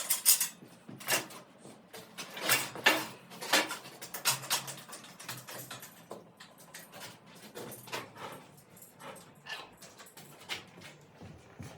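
Irregular metal clicks and knocks from a homemade crane hoisting an engine out of a mini excavator. They come thickest in the first four seconds and then thin out.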